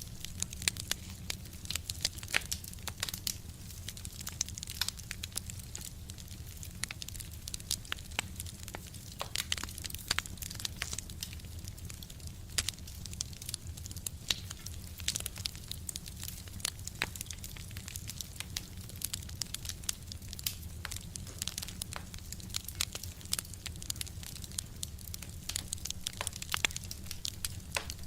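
Fire crackling: many sharp, irregular pops and snaps over a steady low rumble.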